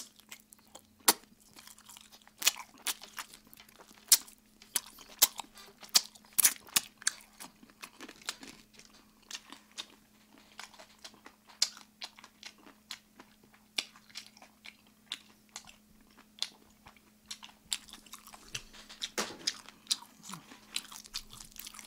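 Close-miked chewing and biting of crispy sauced fried chicken (Kyochon Red Combo): irregular sharp crunches and mouth clicks, some loud, with a faint steady low hum underneath.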